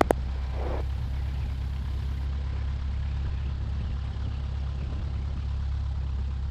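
Cessna 172's four-cylinder Lycoming piston engine running steadily at low power while taxiing, a constant low drone.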